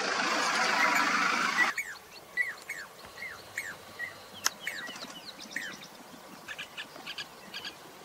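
A loud rushing noise cuts off abruptly under two seconds in, leaving small birds calling: a string of short, high, downward-sliding chirps, then quicker pulsed notes near the end.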